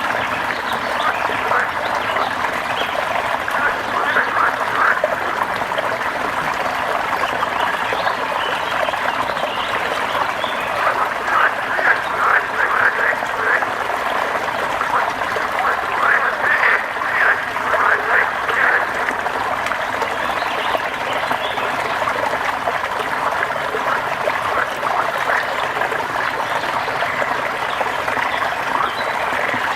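Steady rain ambience overlaid with bursts of rapid, repeated animal calls, loudest a third of the way in and again around the middle.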